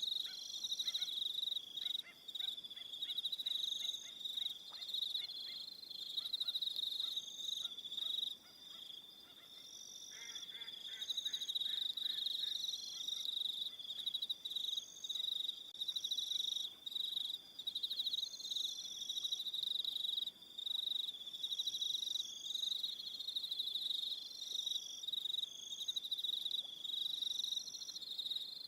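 Evening chorus of crickets chirping steadily, one high pulsing call strongest over several others that trill on and off above it. Fainter, lower pulsing calls join in the first few seconds and again about ten seconds in.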